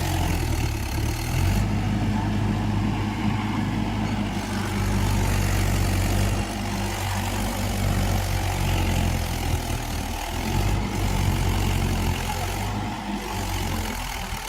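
Tractor diesel engine running steadily, with a low engine note throughout.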